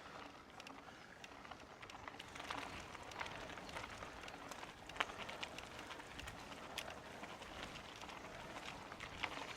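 Mountain bike rolling over a dirt trail: a steady crunch of tyres on the ground with scattered sharp clicks and rattles from the bike, the loudest click about halfway through.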